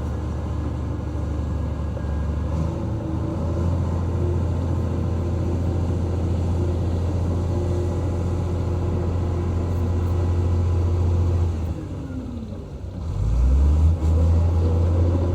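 Diesel engine of a heavy earthmoving machine running steadily with a deep low rumble. About twelve seconds in it eases off, its pitch falling, then picks up again with a rising pitch.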